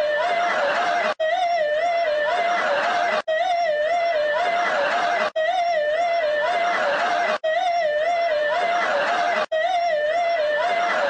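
A warbling alarm-like tone that wavers up and down several times a second. It plays as a short loop that restarts about every two seconds, with a sharp break each time.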